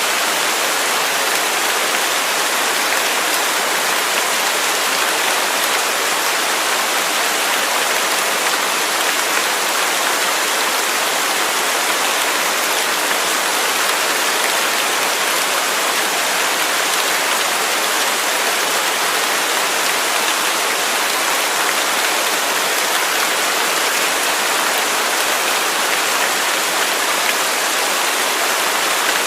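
Waterfall rushing steadily: a constant, even hiss of falling water with little deep rumble.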